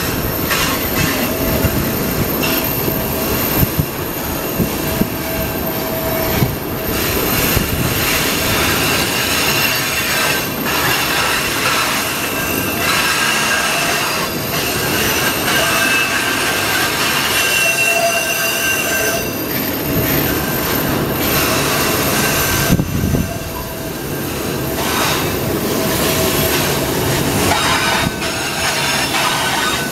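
Freight train of tank cars rolling past close by, with a steady rumble and clatter of wheels on the rails. High squealing tones from the wheels come and go over it.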